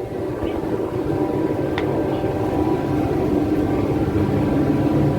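Ship's engine droning steadily in a low, even hum that grows slightly louder, with a single short click about two seconds in.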